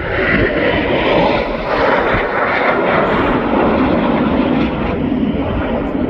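Aircraft flying by, its engine noise loud and steady, with a brief fall in pitch just at the start.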